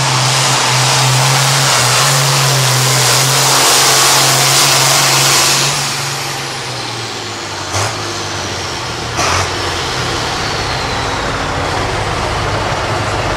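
Hot-farm pulling tractor's diesel engine running hard at full throttle, then backing off about halfway through, with a high whine falling away slowly. Two short hissing bursts follow, and the engine settles to a lower, steady run.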